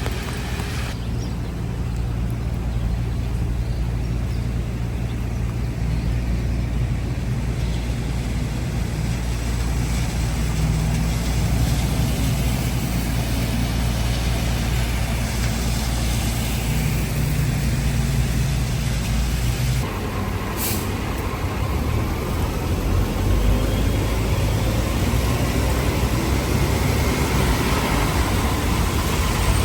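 Street traffic: a heavy vehicle's engine running with a low steady hum that shifts about 20 seconds in, and a short hiss about 21 seconds in.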